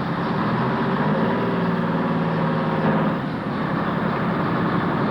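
Heavy truck engine running under steady load, then easing off about three seconds in.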